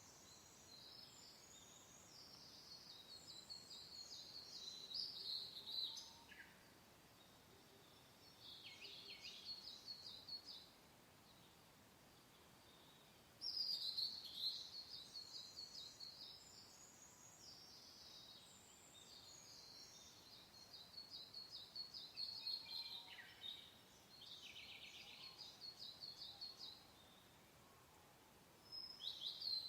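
A songbird singing long, rapid, high-pitched warbling phrases of a few seconds each, separated by short pauses, over a faint steady hiss.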